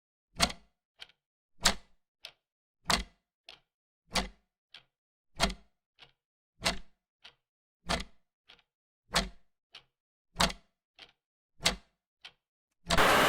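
Clock ticking in an even tick-tock: a loud tick about every one and a quarter seconds, each followed by a fainter tock. Near the end a short rush of hiss cuts in over the ticking.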